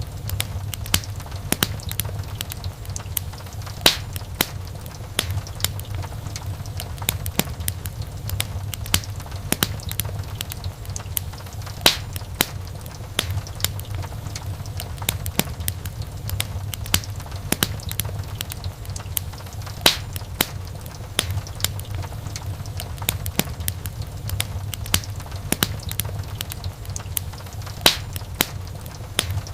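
Wood fire crackling in a fireplace: a dense run of small sharp pops and snaps over a steady low rumble of the flames, with a louder pop about every eight seconds.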